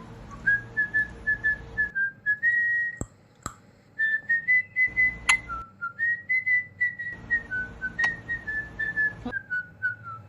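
Someone whistling a tune in short, clear notes that step up and down, with brief pauses and a few sharp clicks between phrases.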